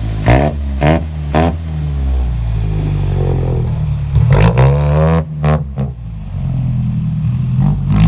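Truck engine running hard under load, its revs rising and falling, with a loud rising surge about four and a half seconds in.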